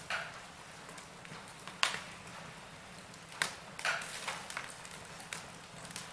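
Wood fire crackling: irregular sharp pops and snaps of burning wood over a faint steady hiss, the loudest pop about two seconds in.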